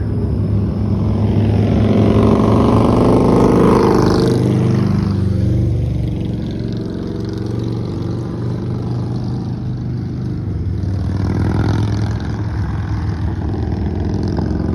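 Vehicle engine running at road speed under steady road and wind noise, swelling in loudness a couple of seconds in and easing off after about six seconds.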